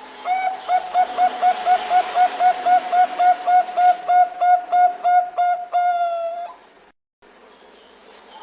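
Zebra dove of the Bangkok perkutut type cooing: a rapid run of short clipped coos, about four a second, ending in one longer drawn-out note. The sound cuts out completely for a moment near the end, over a steady background hiss.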